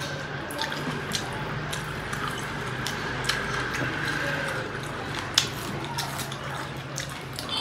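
Two people eating rice and pork curry with their hands: wet chewing and lip-smacking with scattered small clicks, over a steady low hum.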